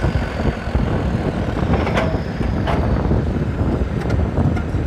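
Eicher 380 tractor's diesel engine chugging hard with a rapid, even pulse, working under a heavy load.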